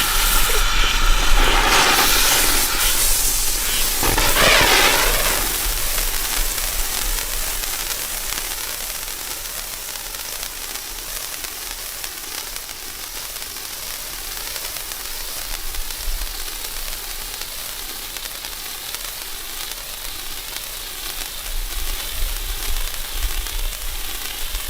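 Winda Fireworks 'Freedom's Wings' ground fountain burning, a steady high hiss of spraying sparks. It is loudest and busiest for the first five seconds or so, with some whistling tones, then settles into a slowly fading hiss, with sharper crackly bursts near the end.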